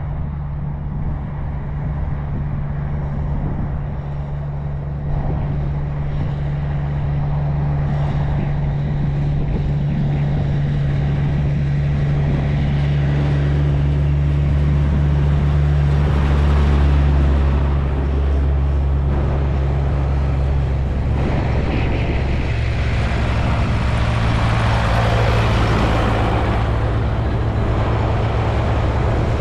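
Diesel tractor engine running with a steady low drone; its note drops slightly about two-thirds of the way through, while a rushing noise builds up toward the end.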